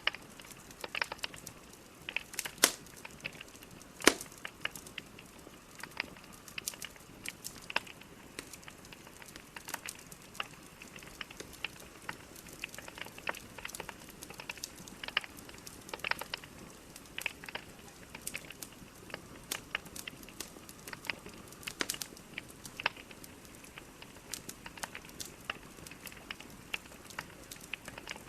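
Logs burning in a fireplace: a steady soft hiss under irregular crackles and snapping pops, a few of them louder, as at about 2.5 and 4 seconds in.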